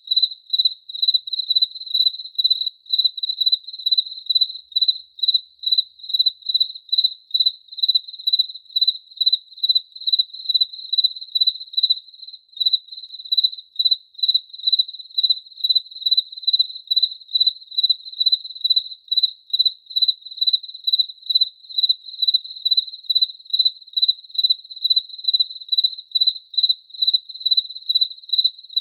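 Cricket chirping in a steady, even rhythm, about two or three high-pitched chirps a second on one pitch.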